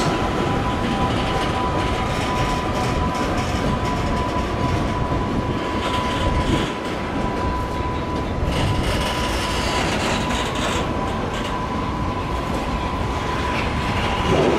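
Freight train's Koki container flat wagons rolling past at speed: a steady rumble with clatter from the wheels, and a steady high-pitched whine that fades out near the end.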